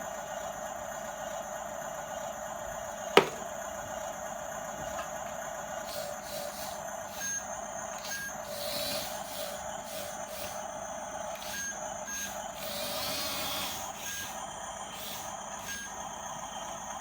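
RC model bulldozer's electric drive running with a steady whine, a sharp click about three seconds in. From about seven seconds in, short high beeps come at irregular intervals.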